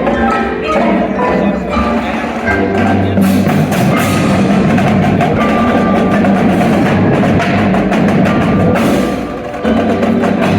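High school winds and percussion ensemble performing: wind instruments holding full, loud chords with sharp percussion strikes among them.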